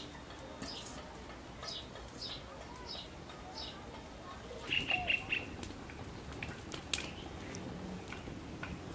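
Small birds chirping, a short high call repeated about every half second, with a quicker run of chirps about five seconds in. A single sharp click sounds near the seventh second.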